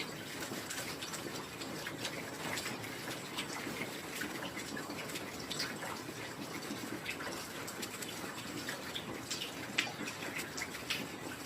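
Steady heavy rain, with many individual drops ticking sharply through it and one louder drop just under ten seconds in.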